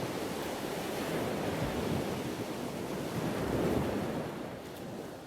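Sea waves and wind: a steady rushing that swells and eases twice, getting quieter near the end.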